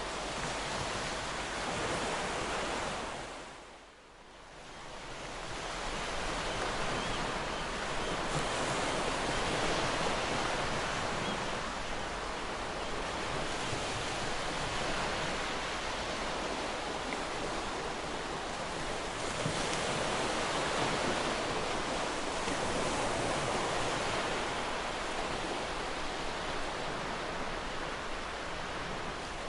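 Ocean surf washing continuously onto a beach, a dense rushing noise that swells and eases. About four seconds in the sound fades almost away for a moment and then swells back.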